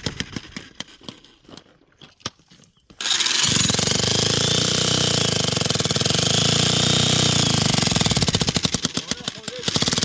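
A small engine running with a fast, even pulse. It drops away in the first second, then comes back suddenly at full level about three seconds in and runs steadily until it turns choppier near the end.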